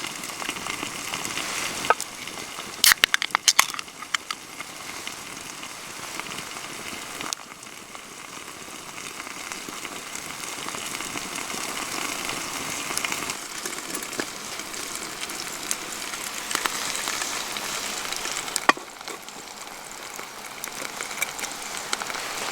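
Food sizzling in a pan over a campfire, a steady hiss with a quick run of sharp clicks about three seconds in and one more sharp click near the end.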